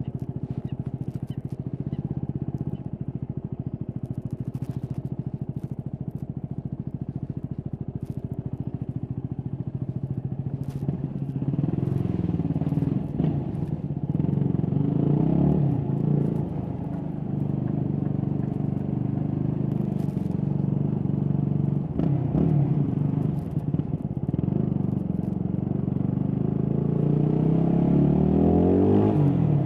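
Stock Yamaha WR250X's single-cylinder engine on the move: steady running for about the first ten seconds, then revving up and falling back several times as the bike is ridden through the gears, with a long climb in revs near the end. Scattered clicks and rubbing from the recorder in the backpack.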